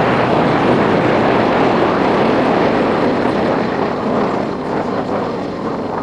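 Loud rushing wind and road noise from riding a Yamaha Factor 150 motorcycle, easing off over the last couple of seconds.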